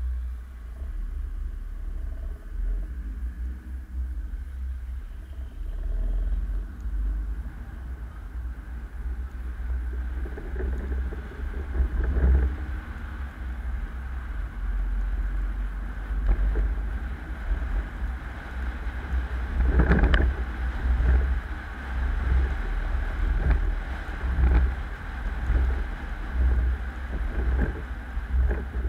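Car driving: a steady, uneven low rumble of road and wind noise, with occasional knocks from bumps, the loudest about twenty seconds in.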